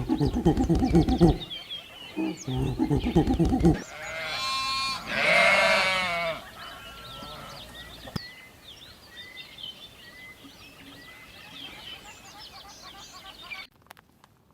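Animal calls: two bursts of rapid pulsing calls, then a longer, loud wavering cry, followed by faint, repeated high chirps.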